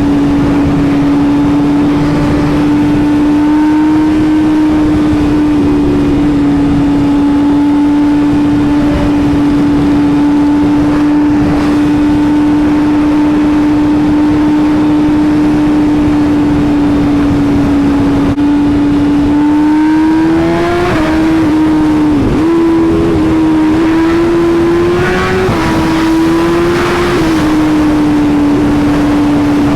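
BMW S1000RR inline-four sport-bike engine running at a steady high pitch at speed, with wind noise. About two-thirds of the way in the pitch starts to waver up and down as the throttle is opened and closed, with one brief sharp dip.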